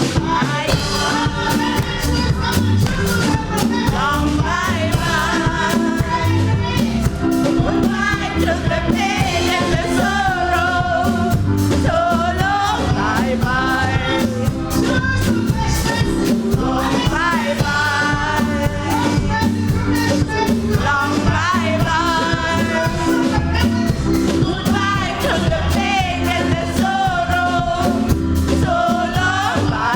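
Live gospel music: singers performing over a full band with drums, bass and keyboards keeping a steady beat.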